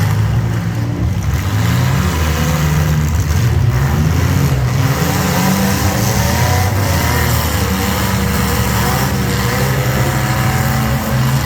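Engines of derby mini trucks, vans and SUVs running and revving against each other, with a steady mix of engine notes that rise and fall.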